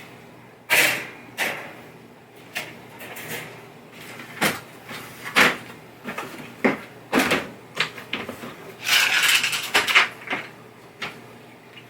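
Hand tools being handled: metal sockets and a socket set clicking and clattering in a string of sharp knocks, with a longer rattling stretch about nine seconds in, as the right-size socket is sought.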